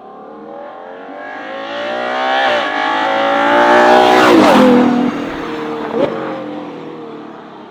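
Ferrari Purosangue's V12 engine accelerating hard, its pitch climbing, with quick upshifts about two and a half and four and a half seconds in. It is loudest around the second shift, then fades with falling pitch, and one sharp crack sounds about six seconds in.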